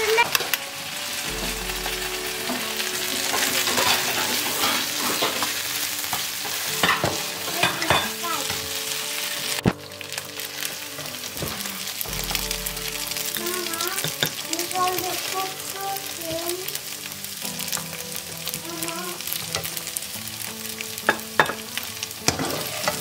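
Fried rice sizzling in a frying pan while it is stirred and scraped with a plastic slotted spatula, with sharp scrapes and clicks over a steady sizzle. The sizzle drops suddenly about ten seconds in and carries on more quietly.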